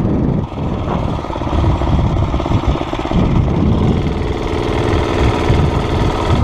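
Tecumseh single-cylinder engine of a Murray mini bike running during a ride, dipping briefly about half a second in. The mechanic calls it a little hesitation and puts it down to cold air drawn in through a carburetor with no air filter.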